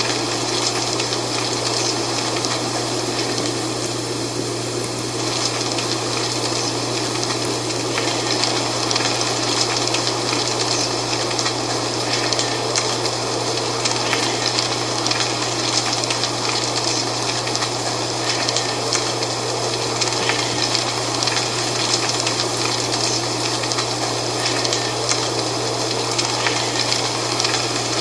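Dry fall leaves rustling and crackling in the wind, a dense steady rustle with fine crackles throughout, over a steady low hum.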